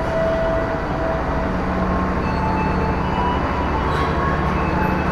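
Steady, continuous rumble of vehicle noise with a low hum and a faint steady tone or two above it.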